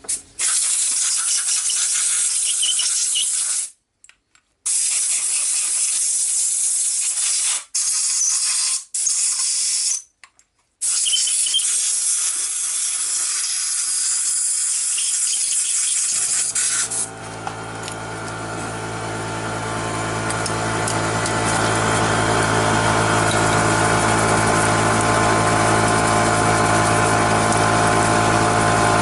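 Loud hissing blasts of compressed air or spray come in several long bursts with short breaks between them, as the brake parts are blown or sprayed clean. About 16 seconds in, a motor-driven machine starts, builds up over a few seconds, and then runs with a steady hum.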